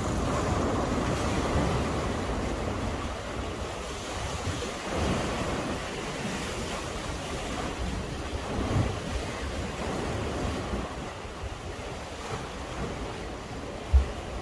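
Sea waves surging and washing against a breakwater in waves that swell and ease every few seconds, with wind buffeting the microphone. A short thump near the end.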